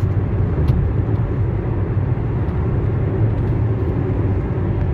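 Steady road noise of a car driving along a highway, heard from inside the cabin: an even low rumble of tyres and engine.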